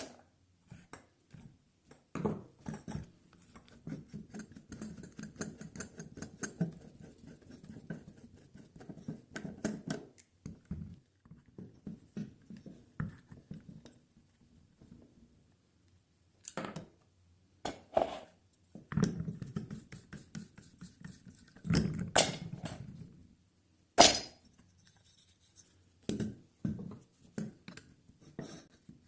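Irregular clicks, scrapes and knocks of an old metal hand drill and its parts being handled and worked on, with a few sharper knocks now and then.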